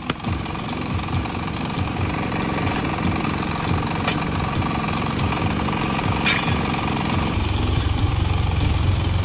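Air-powered tool running with rapid hammering. A short hiss comes about six seconds in, and a lower engine drone builds near the end.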